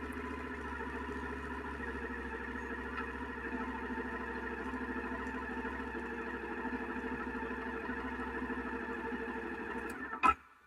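Suzuki SV650X's 645 cc V-twin engine running steadily at an even speed. Near the end the sound cuts off abruptly with a sharp knock.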